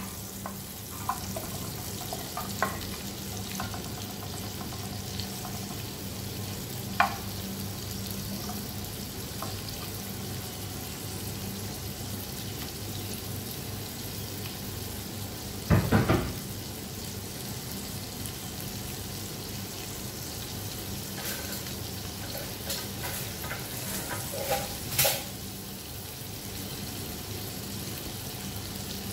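Chopped garlic and sliced onion sizzling steadily in hot oil in a pan, with a few sharp clicks and one louder thump about sixteen seconds in.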